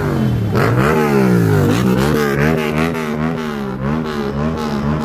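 Motorcycle engine being revved: one slower rise and fall of pitch, then quick throttle blips about three times a second.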